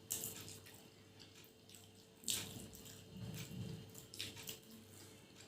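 Faint, scattered wet eating sounds: chewing and fingers working luchi through chholar dal, with a few brief smacks.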